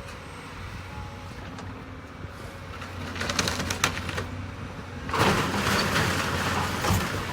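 Heavy demolition machine's diesel engine running steadily while it breaks up the building, with sharp cracks and then a loud burst of crunching and falling debris from about five seconds in.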